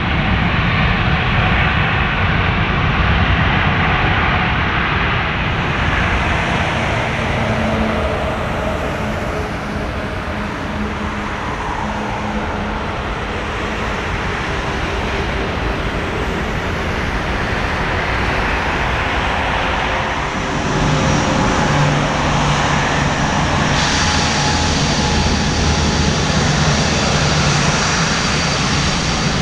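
Jet engine noise from a Boeing 787-9 landing, heard as a steady rush. About twenty seconds in it grows louder, with a low steady drone joining in and the sound turning brighter a few seconds later.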